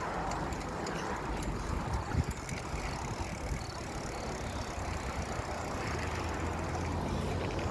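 Riding noise from a moving bicycle filmed by its rider: a steady rushing haze with a low rumble and a few small knocks.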